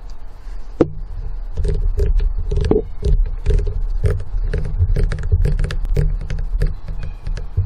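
Footsteps with crunching and clicking underfoot, over a low rumble from camera handling, with a single sharp click about a second in.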